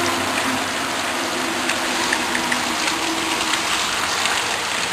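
Steady rain falling, with scattered drops ticking and splashing.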